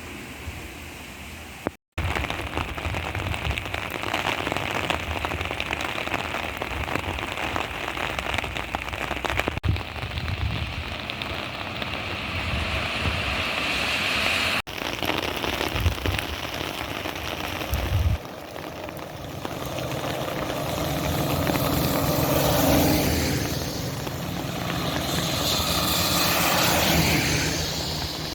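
Rain falling steadily on hard surfaces, with vehicles swishing past on wet pavement in the later part, the sound swelling and fading as each one goes by. The sound changes abruptly several times between recordings.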